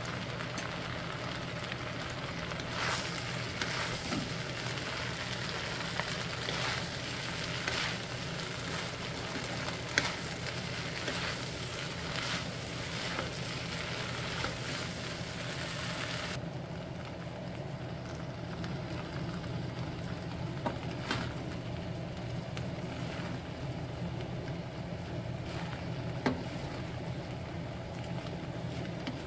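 Fried rice sizzling in a nonstick pan while a wooden spatula stirs it, with scattered scrapes and knocks of the spatula on the pan. About halfway through the sizzle drops away suddenly, leaving a steady low hum.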